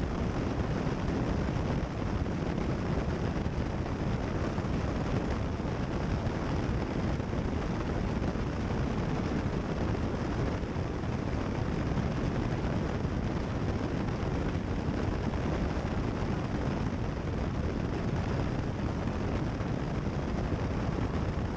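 Steady drone of a Cessna 172 Skyhawk's engine and propeller, heard inside the cockpit through the headset audio feed.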